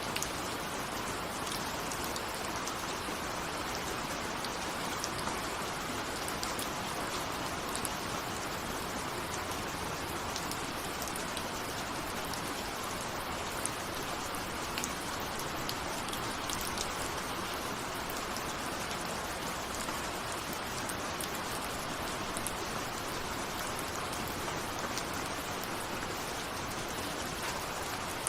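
Steady rain with raindrops pattering on a window, many small drop strikes over an even hiss.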